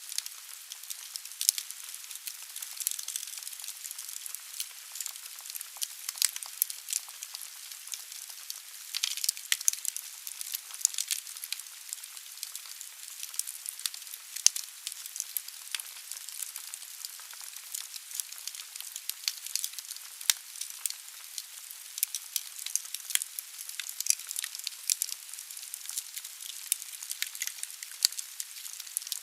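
Wood fire burning in a fireplace: a steady hiss of the flames with frequent sharp crackles and pops from the logs, one louder pop about halfway through.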